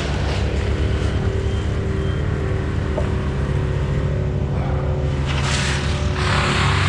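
An engine running steadily at low speed. A rushing noise rises over it about five and a half seconds in and again near the end.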